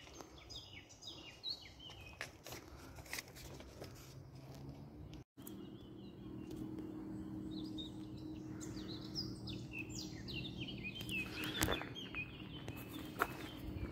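Small birds chirping and singing in a garden, with scattered light clicks. The sound drops out briefly about five seconds in, and after that a faint steady low hum runs under the birdsong.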